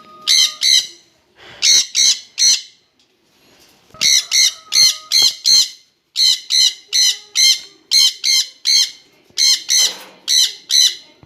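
Jenday conures calling loudly: short, shrill calls repeated about four times a second in runs of several, with brief pauses between runs.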